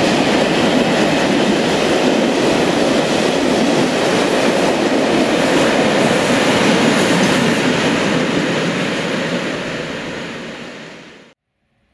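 Freight train of tank wagons rolling past close by, the steady noise of wagon wheels running on the rails. It fades from about eight seconds in as the wagons move away, then cuts off abruptly near the end.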